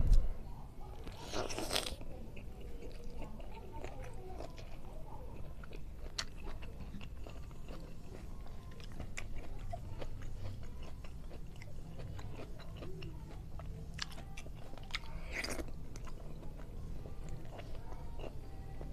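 Close-up chewing and mouth sounds of a person eating rice and fried fish by hand, with many small clicks and crunches. Twice a short, louder rush of noise stands out, about a second and a half in and again a few seconds before the end.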